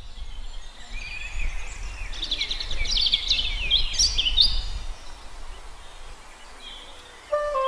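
Songbirds singing over a low outdoor rumble, with a quick run of chirps and trills in the middle. Near the end a flute starts playing a held note.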